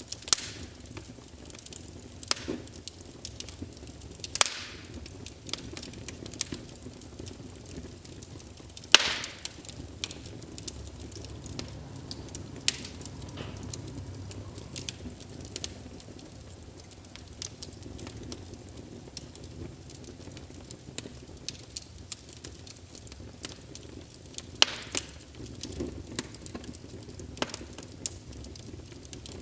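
Wood fire burning in a fireplace: a steady low rush of flame with irregular crackles and pops, and a handful of louder sharp snaps.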